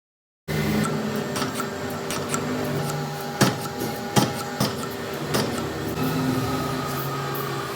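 Metal-working lathe running with a steady hum. Several sharp metallic knocks come through the middle.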